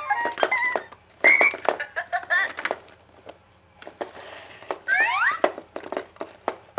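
Short whistle-like tones with a rising glide about five seconds in, among light clicks and knocks.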